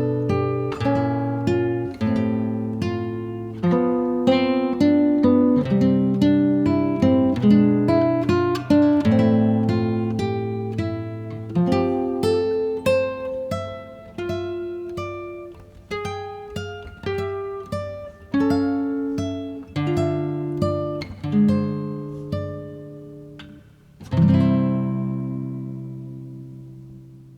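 Background music: acoustic guitar playing plucked notes and strummed chords, ending on a final chord about three seconds before the end that rings out and fades away.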